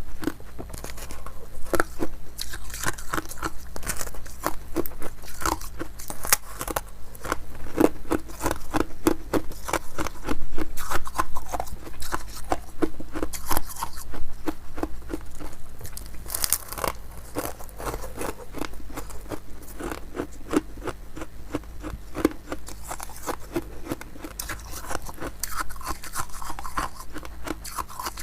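Ice being bitten and chewed close to the microphone: a continuous run of sharp, irregular crunches and crackles as the ice breaks between the teeth.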